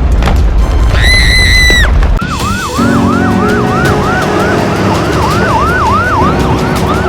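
A siren sounding in quick repeated sweeps, about two a second, starting about two seconds in. Just before it comes a short held high tone.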